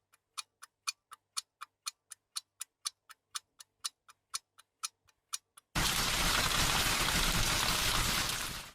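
Fast, even clock-style ticking, about four ticks a second, for nearly six seconds. It gives way suddenly to a loud, even rushing noise that cuts off abruptly at the end.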